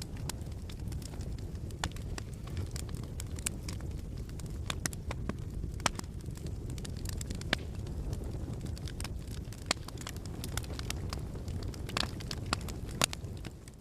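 Fireplace fire crackling: a steady low rumble of burning with frequent sharp pops and snaps. It drops away right at the end.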